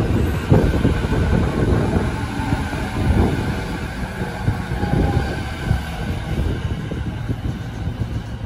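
E209-series electric commuter train running past the platform: a low rumble with rapid knocks and clatter from the wheels, growing quieter toward the end.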